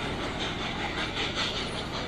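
Steam-hauled train running on the rails: a steady rushing noise with a quick, even pulsing in the upper range.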